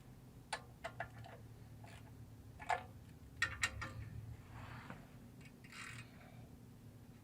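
Irregular light clicks and taps of hand tools and small parts being handled, with two short scraping or rustling sounds near the end, over a faint steady low hum.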